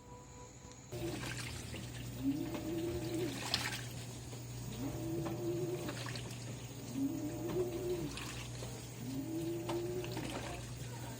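LG 18 kg washing machine drum agitating in short alternating turns on the duvet cycle, drum overloaded with clothes: a motor whine rises and holds for about a second roughly every two seconds, with water sloshing and splashing through the wet load. The sound starts about a second in.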